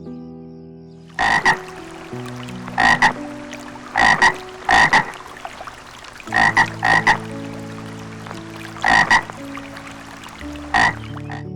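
Frog croaking: short, loud croaks mostly in quick pairs, repeated about every second or two, over steady sustained tones.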